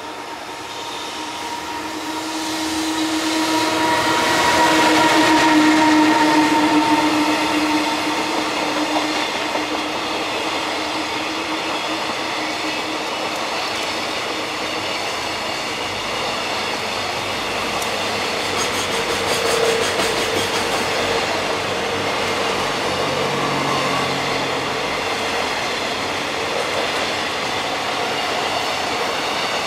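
A JR Freight EF210 electric locomotive passes, loudest about five seconds in, with a steady whine over the noise. A long string of container flatcars follows, running past steadily with the wheels clattering over the rail joints.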